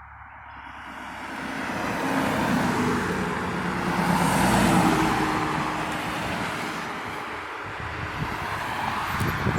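A motor vehicle passing by on the road, growing louder over the first few seconds, loudest around the middle, then fading.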